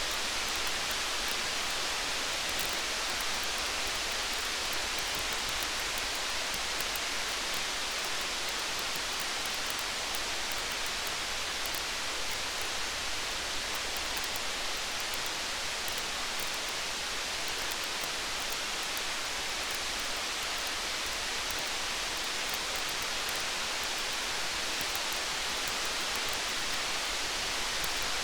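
Steady rain, an even hiss, with faint small crackles of a wood fire scattered through it.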